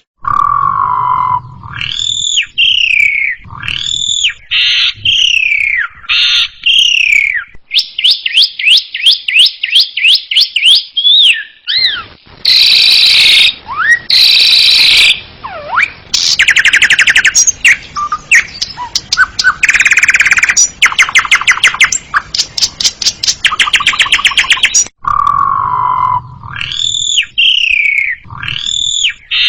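Asian pied starling (jalak suren) singing a loud, varied song: slurred whistles that fall in pitch, fast rattling trills and harsh, scratchy chatter. The opening run of whistles comes round again near the end.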